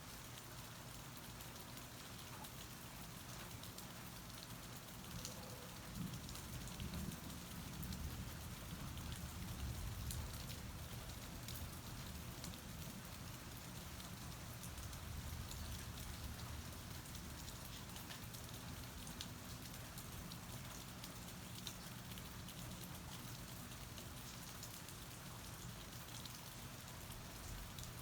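Steady rain falling, heard from under a porch roof, with scattered sharp ticks of single drops. A low rumble swells and fades for a few seconds about a quarter of the way in.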